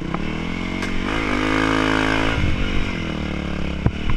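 Enduro motorcycle engine revving: the pitch rises about a second in, holds for over a second, then drops back to a steadier, lower run. A sharp knock sounds near the end.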